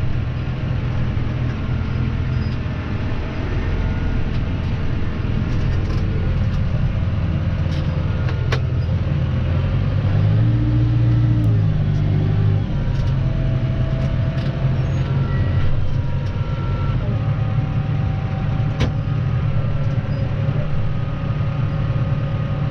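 Claas Arion 530 tractor's diesel engine running steadily, its pitch rising and falling once about ten to twelve seconds in, with a few sharp clicks and knocks over it.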